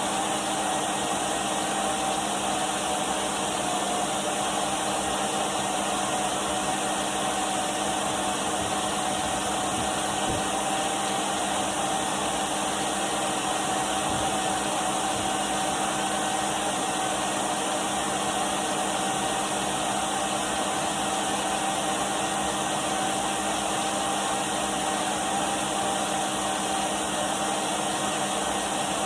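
Henry cylinder vacuum cleaner running steadily: a constant rushing hiss with a steady motor whine.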